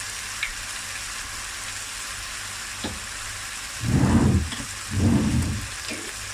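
Food frying in a pan with a steady sizzling hiss. There are two louder, short handling noises in the pan about four and five seconds in.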